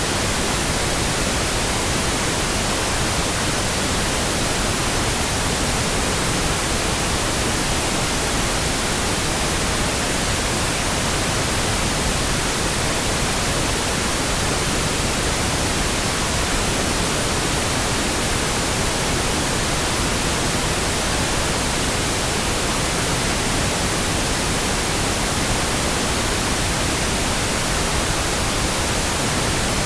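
Pink noise for sleep: a steady, unbroken hiss that does not change.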